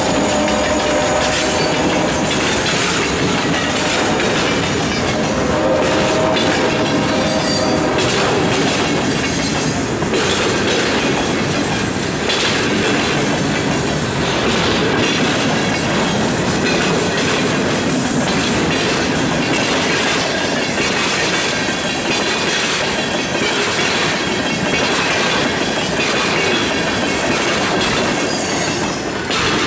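Freight train cars rolling past close by: a steady rumble with the clickety-clack of wheels over rail joints, and short wheel squeals at the start and again about six seconds in.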